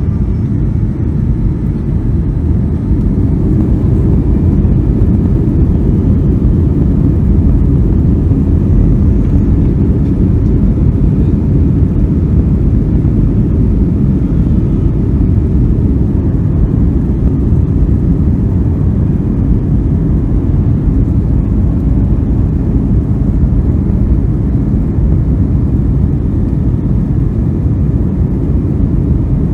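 Boeing 757-200's engines at high power during takeoff, heard inside the cabin as a loud, steady low rumble that builds a little over the first few seconds.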